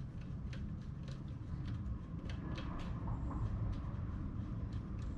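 Scattered light clicks and taps, as of tools or parts being handled, over a low steady rumble.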